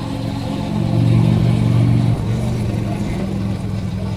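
Motorcycle engine running under way, heard from a helmet-mounted camera: a steady engine note whose pitch and level drop slightly about two seconds in, as the throttle eases.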